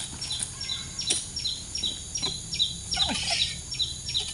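A bird calling steadily in a rapid series of short, high, downward-sliding chirps, about three a second, each a quick pair of notes. A couple of sharp clicks of footsteps or dry fronds underneath.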